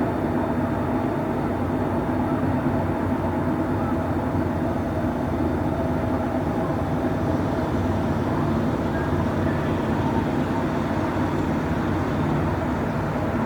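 Train station ambience dominated by the steady running hum of a train, with several low steady tones and no distinct events.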